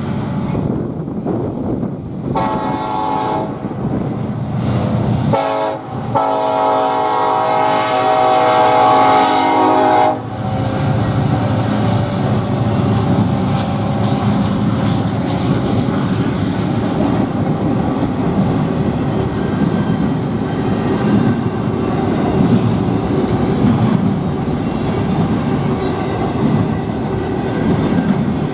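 A diesel freight train's locomotive horn sounds two blasts, the second held longer, for about four seconds. The Union Pacific SD70-series locomotives and the train then roll through the crossing with a steady rumble and clickety-clack of wheels over the rail joints.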